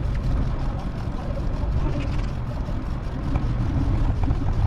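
Wind buffeting a microphone on a moving bicycle: a steady low rumble that rises and falls.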